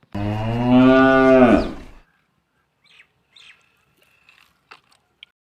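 Cow mooing: one long call of about two seconds that drops in pitch as it ends, followed by a few faint clicks.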